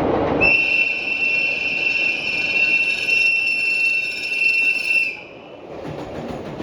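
Train warning horn sounding one long, steady, high-pitched blast of about four and a half seconds, over the rumble of the train.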